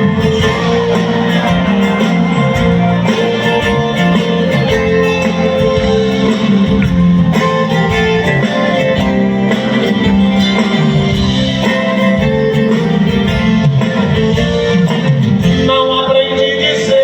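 Live band playing an instrumental passage of a slow ballad, led by guitar.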